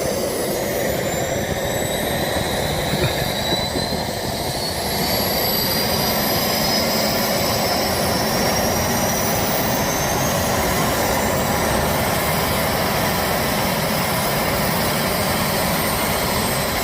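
Small turbine jet engine on a test run after repair of crash damage, running with a loud rush and a high whine. The whine climbs in pitch over the first few seconds as it spools up, the sound gets louder about five seconds in, and the engine then runs steadily.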